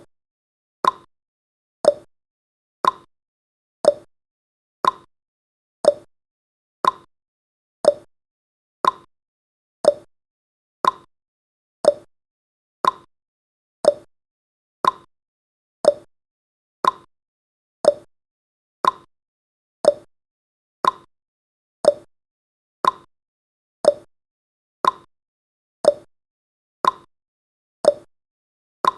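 Countdown timer's ticking sound effect: a short, sharp tick once every second, with silence between the ticks.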